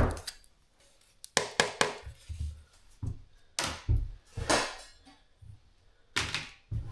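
Cookware and dishes being handled: a string of irregular knocks and clatters.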